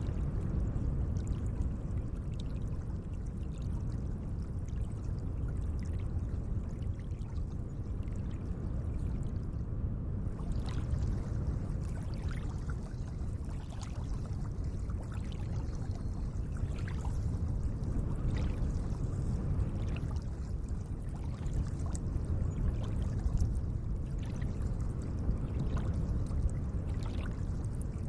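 Gentle lake water: a steady low wash with small splashes, roughly one every second.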